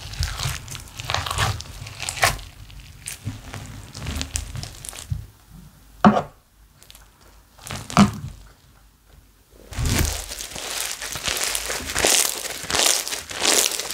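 Slime being squished, stretched and pressed by hand, its air bubbles crackling and popping. Two sharp snaps stand out about six and eight seconds in, with quieter stretches around them, before the dense crackling starts again at about ten seconds.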